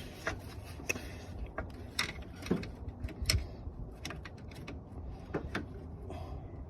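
Irregular clicks, knocks and short scrapes of hand tools and parts being worked on in a car's engine bay, over a steady low hum.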